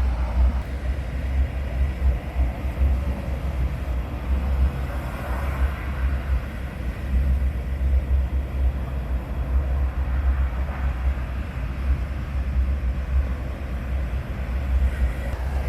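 Wind buffeting the microphone in a constant gusty rumble, over the steady wash of surf breaking on the beach.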